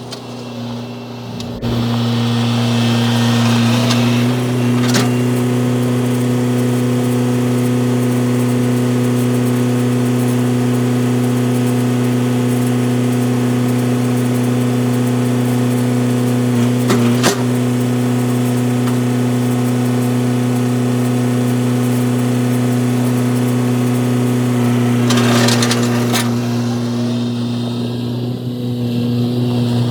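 Construction machine's engine running hard and steady, stepping up in revs about two seconds in, with a few sharp knocks and a short clatter near the end.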